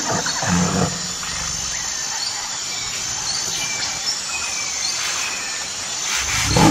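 Tiger roaring: a deep call in the first second and another starting near the end. Between them is a quieter stretch of steady hiss with a few faint high chirps.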